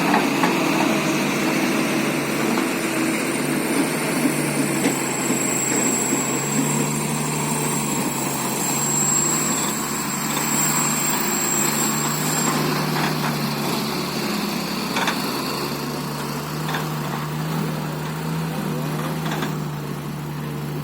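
Hino dump truck's diesel engine running steadily at a constant speed, with a thin high whine for several seconds in the middle.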